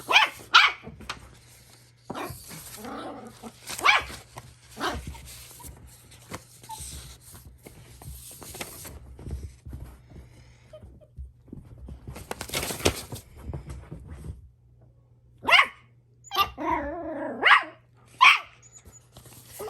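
Morkie puppy barking in short, noisy yaps, on and off. The barks are loudest just at the start and again in a cluster a few seconds before the end.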